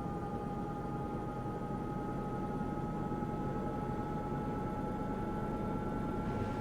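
Washing machine running, its motor giving a steady two-note whine that creeps slowly up in pitch over a low rumble from the drum.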